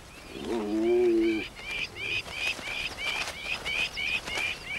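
Savanna bird calls: a short chirped note repeated about three times a second, over the open-grassland background. Near the start there is one low, drawn-out call lasting about a second, the loudest sound here.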